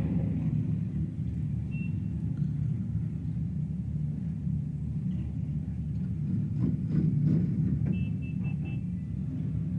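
Low steady rumble of motorcycle engines running, with a short high beep about two seconds in and four quick high beeps near the end.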